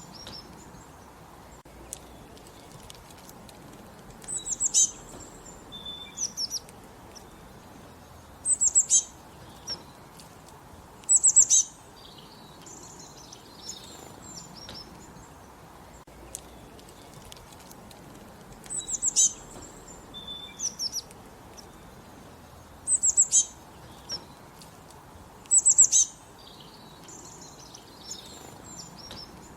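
Songbirds chirping in short phrases of rapid, high notes, each about half a second long. There are about six loud phrases with fainter calls between them, over a faint steady outdoor hiss.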